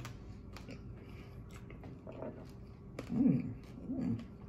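A person chewing food with lips closed: soft wet mouth clicks and smacks. Two short hummed "mmm" sounds of enjoyment about three and four seconds in, each falling in pitch, are the loudest sounds.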